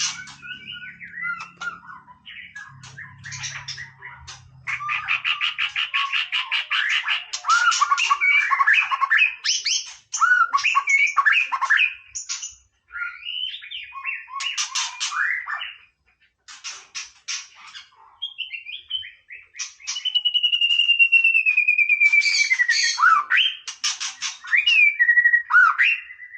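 White-rumped shama singing a long, varied song: rich fluting whistles and glides mixed with fast chattering runs and harsh rattling notes, with one long slurred whistle falling slowly in pitch past the middle.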